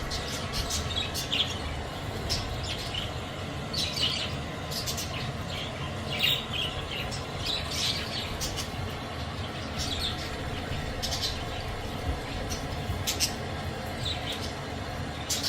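Flock of budgerigars chirping and chattering, short calls scattered irregularly over a steady low background noise.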